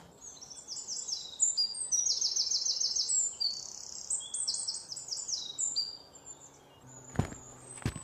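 Birds chirping: several overlapping birds in quick runs of high repeated notes, fading out about six seconds in. Two footsteps follow near the end.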